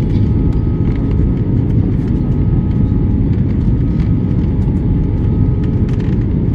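Airliner cabin noise: a steady low rumble of engines and airflow, with faint steady tones above it.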